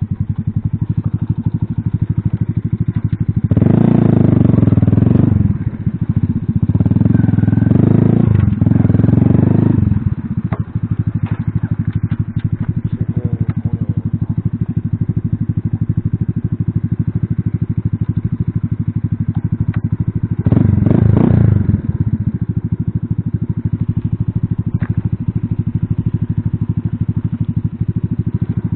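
Alpha moped-style motorcycle engine running under way, with harder revving and a rising note twice in the first ten seconds and again about two thirds of the way through, between steadier stretches. Occasional light clicks and clatter.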